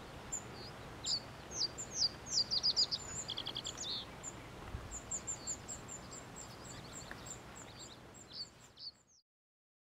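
Open-air ambience with small birds chirping and singing: many short high notes and a quick trill about three seconds in, over a steady faint background hiss. It fades out about nine seconds in.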